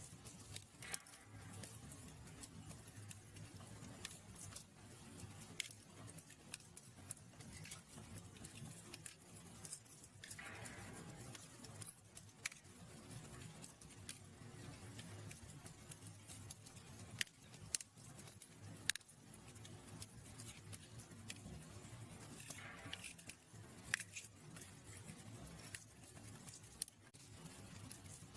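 Wood fire in a fireplace crackling, with irregular sharp pops and snaps over a low steady rumble of the flames. Twice, about ten seconds in and again near the end, there is a brief soft hiss.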